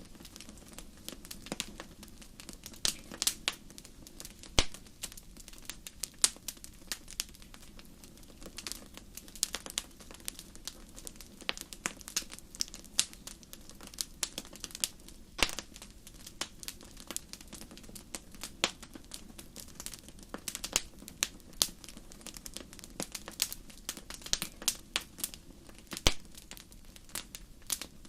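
Fire crackling in a fireplace: irregular sharp pops and snaps, several a second, over a steady soft rush of the flames.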